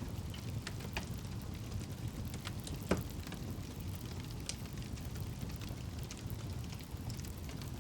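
Campfire burning: a steady low rumble of flames with scattered crackles and one louder pop about three seconds in.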